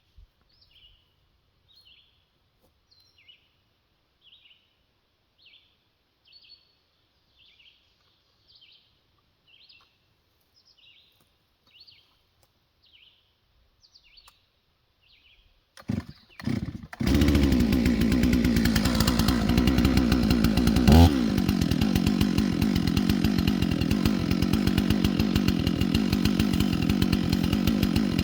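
A bird gives short high chirps, repeated a little faster than once a second. Over halfway through, a chainsaw sputters in two or three short bursts, then starts and runs steadily, with one brief rev a few seconds later.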